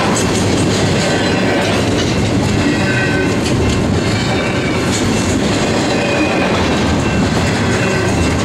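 Double-stack intermodal container train rolling past: a steady, loud rumble and rattle of well-car wheels on the rails, with brief, faint high squealing tones from the wheels coming and going.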